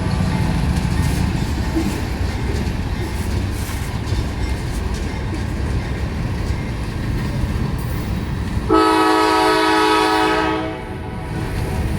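Freight train rolling past with a steady rumble and clatter of wheels. About nine seconds in, the lead locomotive's Nathan K5LA five-chime horn sounds one blast of about two seconds.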